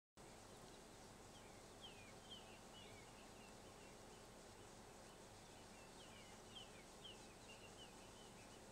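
Faint outdoor ambience with a bird calling in two bouts of short, quick falling chirps, about two seconds in and again about six seconds in.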